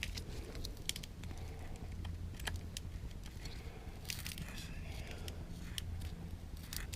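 Electric drill running steadily at low speed, boring a cable hole through the RV's roof, with scattered clicks and crackles from the bit cutting.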